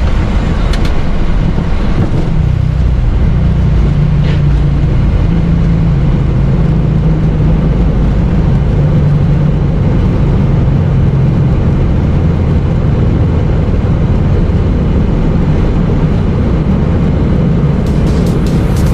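Steady loud vehicle running noise: a dense rumble with a constant low drone that does not change pitch.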